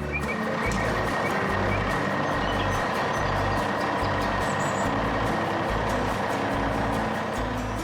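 A truck engine running steadily, with a constant hiss and a thin steady tone, over background music whose bass line steps from note to note.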